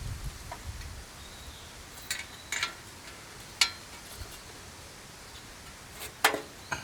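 A few sharp metal clinks and knocks, spaced a second or more apart, as steel parts of a homemade fire pit are fitted together.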